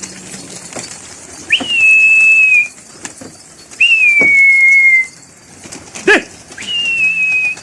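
Three long, loud whistles from a pigeon flyer driving the flock into the air. Each jumps quickly to a high pitch, is held for about a second, then drifts slightly lower. A short sharp call comes just before the third.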